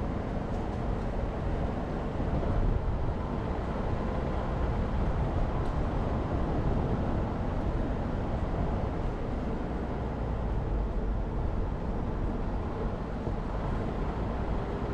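Jeep Renegade driving steadily, its engine and tyre road noise a continuous low rumble.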